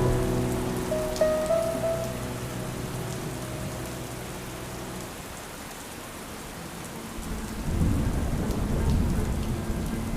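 Steady rain falling, with a low rumble of thunder building about seven and a half seconds in. Soft pitched music notes fade out over the first few seconds.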